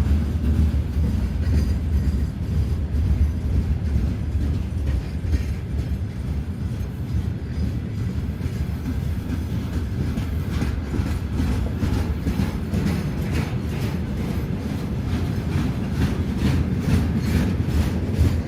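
A train running past on the rails: a steady low rumble, with the wheels clacking over rail joints in a regular beat that grows clearer in the second half.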